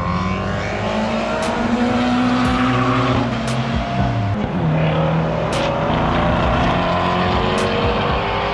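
Track-day cars' engines running hard on a racetrack, revving up through the gears, dropping in pitch around the middle as they brake and downshift, then climbing again.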